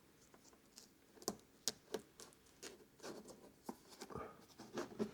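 Faint scattered handling noises: small clicks, taps and rustles of tape and a paper template being pressed onto a motorhome door panel.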